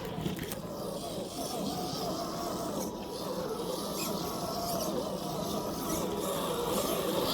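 Electric motor and gearbox of a radio-controlled FMS FJ40 crawler whining as it drives, the pitch wavering up and down with the throttle and growing louder near the end.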